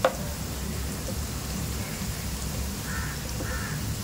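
Sliced onions frying in hot oil in a pan, a steady sizzle as they brown to golden. One sharp knock right at the start, the wooden spatula against the pan.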